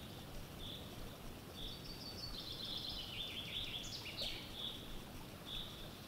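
Songbirds singing: one repeats a short high note about once a second, and another sings a quick run of notes about two seconds in that steps down in pitch and ends in a flourish. A steady low outdoor hiss lies underneath.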